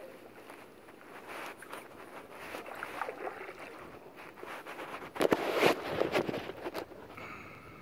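Kayak paddle strokes dipping and splashing in the water, with a louder burst of splashing and knocks a little past five seconds in.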